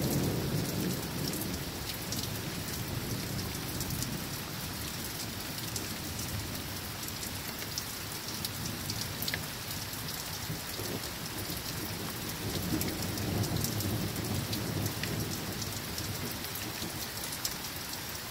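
Steady rain falling, with drops ticking on a surface, and distant thunder: a low rumble dying away at the start, and a second rumble rising and fading a little past the middle.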